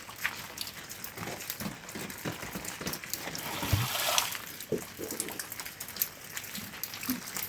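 Water trickling and splashing, with many irregular small splashes and drips and a brief louder gush about four seconds in.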